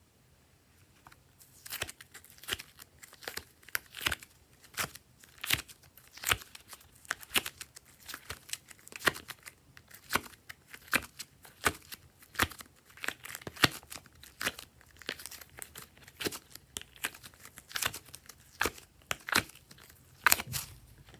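Glossy slime being worked by hand, giving a run of sticky crackling pops about two or three a second, starting about a second and a half in.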